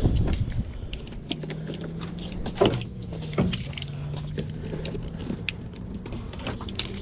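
Clinks, rattles and knocks of bungee cord hooks and metal parts as a mower is strapped down, with a couple of louder knocks a few seconds in, over a faint steady low hum.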